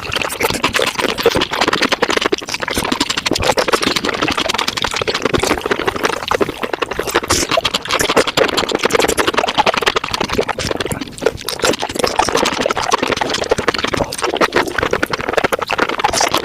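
Close-up mukbang eating sounds of spicy mushrooms played back at five times speed: a dense, unbroken patter of rapid chewing and mouth clicks.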